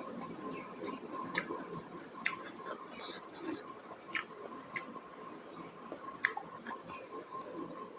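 Close-miked chewing with scattered sharp mouth clicks and smacks, about one or two a second, over a faint steady tone.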